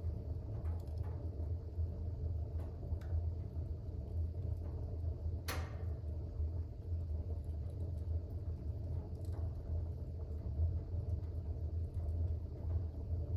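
Fire burning in a fireplace: a steady low rumble with faint scattered crackles, and one sharper pop about five and a half seconds in.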